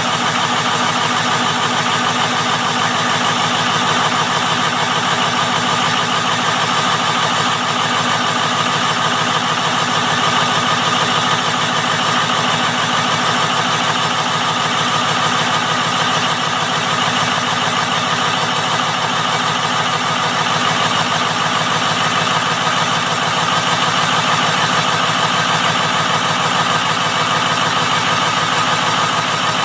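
Ford 6.0 Power Stroke V8 turbo-diesel in a 2004 F250 idling steadily through its exhaust after a cold start, a dense, even run of firing pulses with no change in speed.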